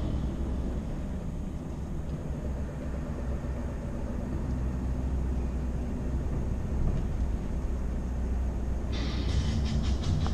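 Scania V8 truck on the move, a steady low rumble of engine and road. Near the end a hiss starts, with a few sharp ticks.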